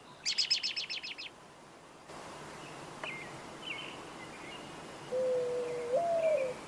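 Bird chirping: a quick run of about ten high chirps in the first second, then scattered softer chirps over a steady hiss, with a low held whistle that bends up and back near the end.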